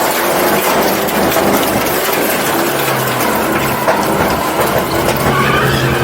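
Truck engine held at high, steady revs during a burnout, with a dense rush of tyre noise; it eases off briefly midway.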